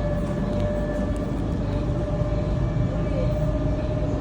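Sydney Trains electric suburban train running, a steady low rumble with a steady high whine over it.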